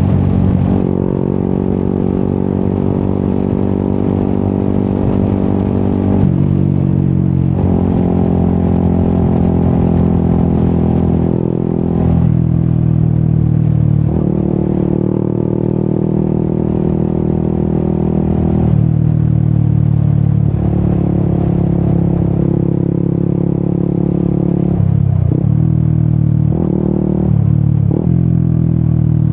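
Yamaha XSR 155's single-cylinder engine running through an Akrapovic exhaust while riding. The engine note holds steady, then steps to a new pitch several times as the revs change, with brief drops in the note near the end.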